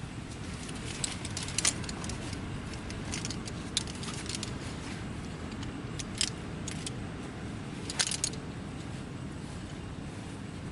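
Small metallic clinks and rattles of camping gear being handled, in a few short clusters, over a steady low rumble of strong wind.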